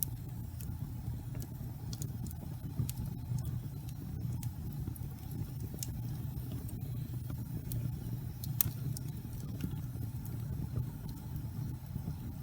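Wood fire burning in a fireplace: a steady low rumble with scattered crackles and pops, one sharper pop about two-thirds of the way through.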